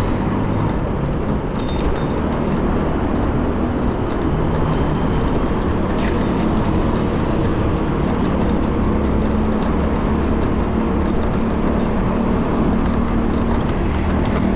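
Road traffic on a city street: a dense, steady low rumble of vehicles and tyres heard from a moving bicycle.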